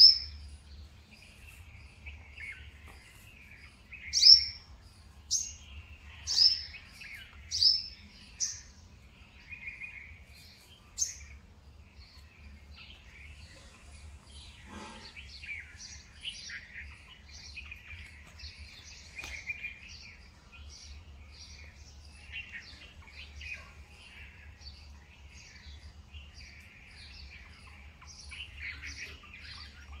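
Garden birds chirping and calling. In the first eleven seconds there are several loud, sharp calls, roughly one a second. After that, many fainter chirps overlap in a continuous chatter.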